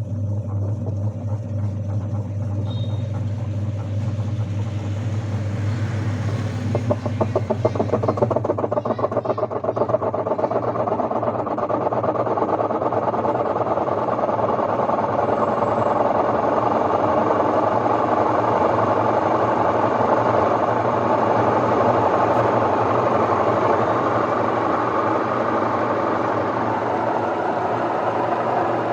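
Whirlpool top-load washing machine running with the abnormal noise it is faulted for: a steady motor hum. About seven seconds in, a fast rhythmic pulsing sets in and builds into a loud, steady whirring.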